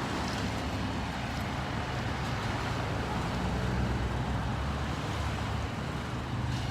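Street traffic noise: a steady low engine hum from a vehicle nearby, over a constant roadway haze.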